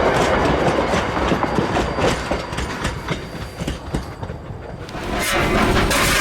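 Steam train running along the track, its wheels clattering with many sharp clicks over the rail joints. The noise drops for a couple of seconds in the middle, then a loud rushing noise returns about five seconds in.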